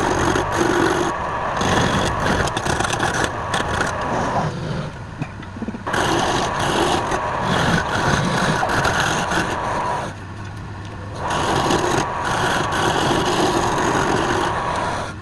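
Wood lathe running while a turning tool cuts into palm wood, a steady rough scraping hiss. The cutting noise drops away twice for a second or so as the tool comes off the wood, then resumes.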